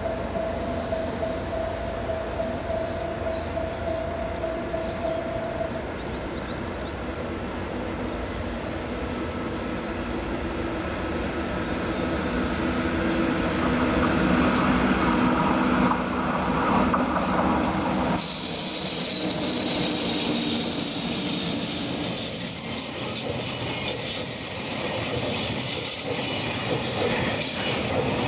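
Freight train of two EF64 electric locomotives hauling oil tank wagons, growing louder as it approaches. From about 18 seconds in, the tank wagons run past with a steady high hiss and squeal of wheels on the rails.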